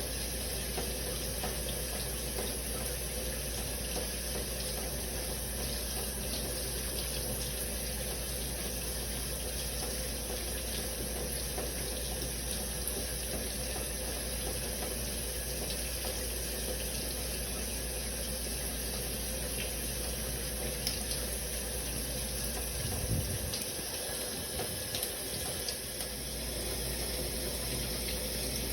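Shower water running in a steady, even hiss. A few soft knocks come about three-quarters of the way in, while the low rumble briefly drops away.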